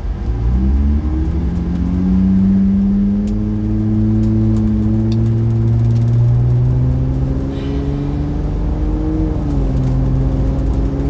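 Car engine accelerating, its note rising steadily over several seconds over a low road rumble, then dropping about nine seconds in.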